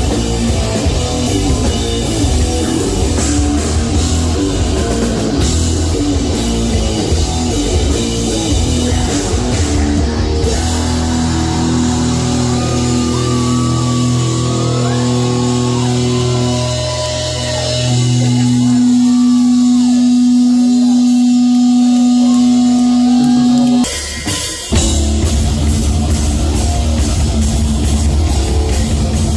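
A live heavy metal band with distorted electric guitars, bass and drum kit. It plays a fast, dense riff, then lets low chords ring out sustained while a guitar squeals and slides above them. It stops dead for about a second near the end, then the whole band crashes back in.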